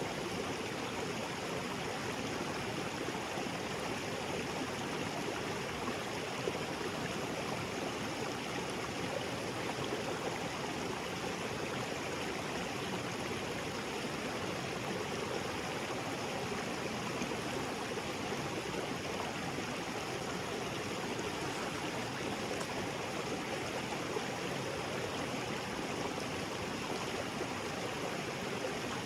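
Small waterfall splashing into a rocky jungle creek, a steady, unbroken rush of falling and flowing water.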